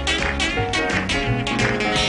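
Instrumental break in an up-tempo gospel song: electric guitar playing a lead line over a band with a steady beat and bass.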